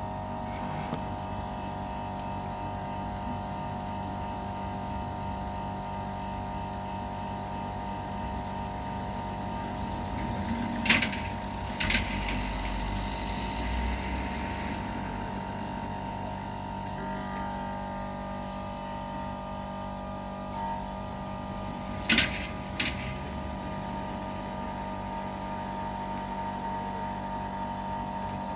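Homemade air compressor running with a steady hum. Two pairs of sharp clicks come about a third and three-quarters of the way through.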